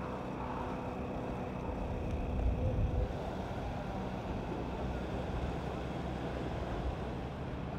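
A steady low engine hum under outdoor noise, swelling slightly about two to three seconds in.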